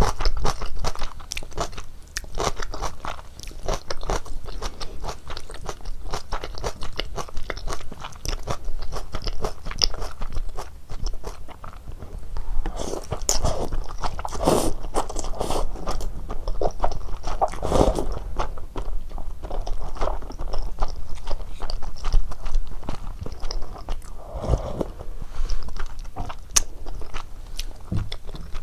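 Close-miked eating sounds: chewing and biting of ramen noodles and dumplings as a dense run of short wet clicks. A few louder, longer mouth sounds come around the middle and again near the end.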